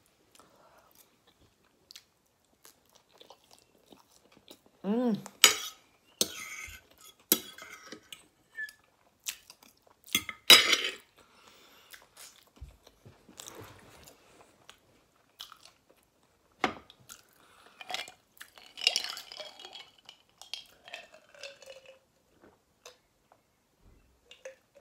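Close-miked eating sounds: chewing and mouth noises from small boiled new potatoes, with scattered sharp clicks of a metal fork on a ceramic plate, the loudest about five and ten seconds in. A brief hummed vocal sound rises about five seconds in.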